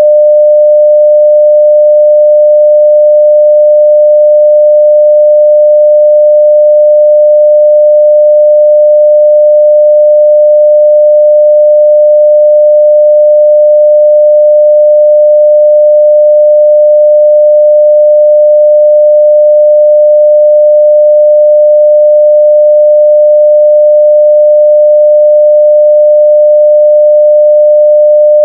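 A steady 600 Hz sine-wave test tone at full level (0 dB), one pure pitch held without change.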